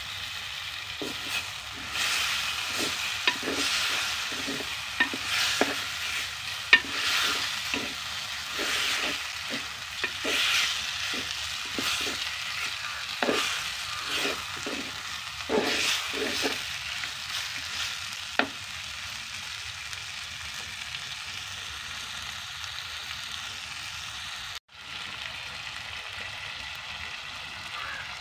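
Chicken pieces and spices sizzling in a clay pot as they are stirred and turned over, with irregular scraping strokes through the first two-thirds, then a steady sizzle.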